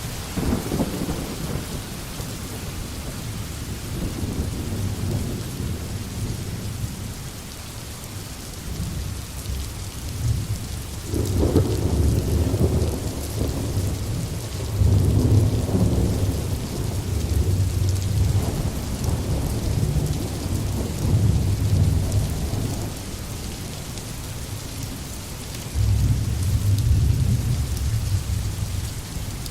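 Steady rain falling in a forest, with low rolling thunder rumbling in swells through the middle and again near the end.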